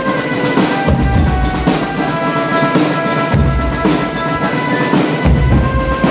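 Indonesian school drum band (drumband) playing: bass drum hits and snare and cymbal strokes keep a steady beat under held melody notes that change partway through.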